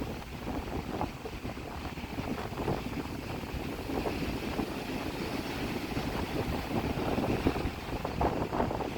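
Strong wind buffeting the microphone in a low, uneven rumble, over the wash of sea waves breaking and splashing.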